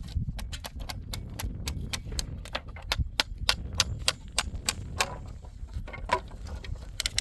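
A quick, irregular series of sharp taps or clicks, about three to four a second, over a low rumble.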